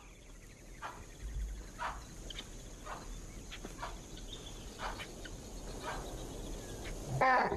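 Short wild animal calls, repeated at irregular intervals, with one louder call near the end: alarm calls from the sentries that have spotted a stalking lion. A faint steady high hum runs underneath.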